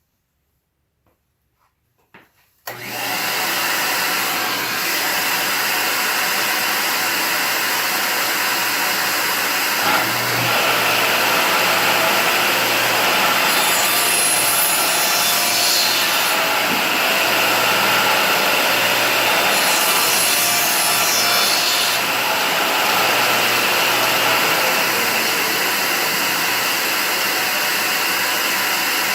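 Shop vac switched on about three seconds in, running steadily as suction for the table saw's dust collection. About ten seconds in a second motor hum strengthens under it, the table saw starting, and twice a harsher hiss rises for a couple of seconds.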